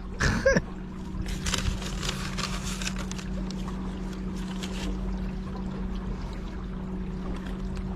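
Battery-powered electric boat motor humming steadily at one even pitch, with water washing against the hull; a louder stretch of splashing and rushing water from about one to three seconds in.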